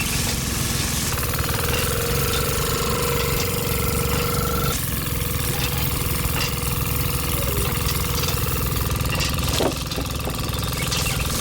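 Small engine of a homemade mini tractor running steadily with a rapid, knocking beat.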